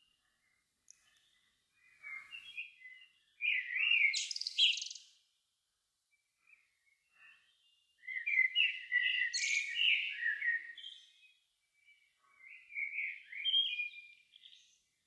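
Songbirds singing at dusk: three warbled song phrases, each a couple of seconds long, separated by short quiet pauses.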